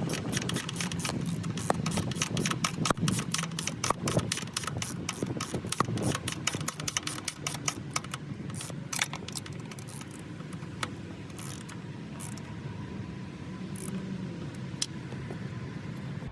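Rapid clicking and rattling of hand and tool work on a motorcycle, dense at first and thinning out about halfway, over a steady low hum.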